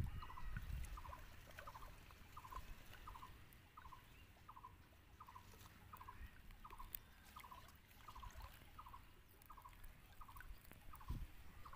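A bird calling over and over in short pulsed notes, about two a second. Faint low sloshing of hands moving in shallow pond water near the start and again near the end.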